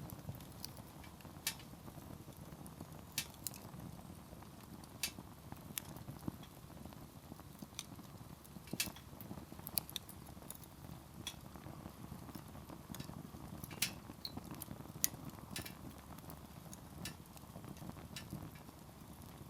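Firewood burning in a campfire, crackling with sharp, irregular pops and snaps over the low, steady rush of the flames.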